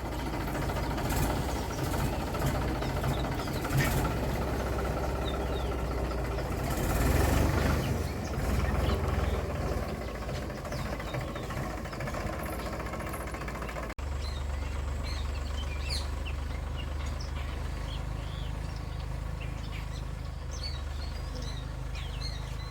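An engine running steadily with a low hum. The noise over it swells briefly about a third of the way in. After a sudden break midway, the hum continues more quietly while birds chirp.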